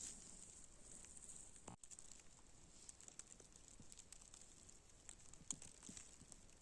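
Near silence in falling snow, with faint, irregular soft ticks and crunches.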